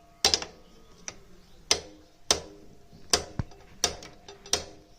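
Hammer tapping on the rear brake caliper of a Royal Enfield Meteor 350 to drive the brake pads and their retaining pin back into line. About six sharp metallic taps, roughly one every 0.7 s, each with a short ring.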